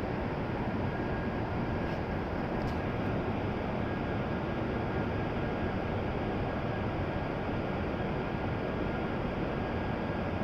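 Steady station-platform ambience at a Shinkansen station: an even rumbling hiss with a faint, steady high whine over it and no distinct events.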